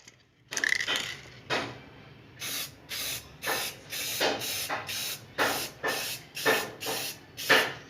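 Clear coat being sprayed onto motorcycle fairings: two longer hisses of spray early on, then a steady run of short, even bursts, about two a second.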